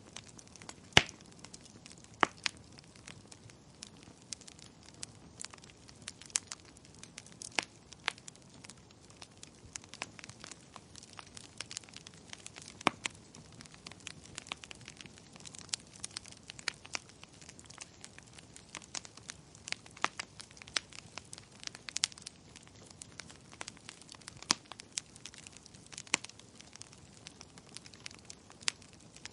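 Wood fire crackling: irregular sharp pops and snaps over a soft hiss, the loudest pop about a second in.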